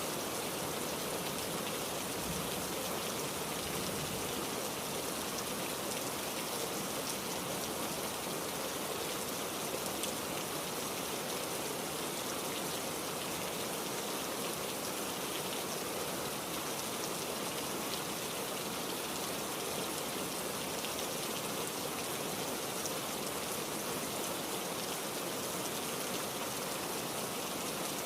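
Heavy rain falling steadily: an even hiss with the fine patter of individual drops, no thunder.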